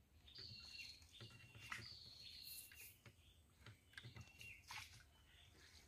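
Faint bird calls: short whistled notes that step down in pitch, repeated several times, with a few soft clicks and a low rumble underneath.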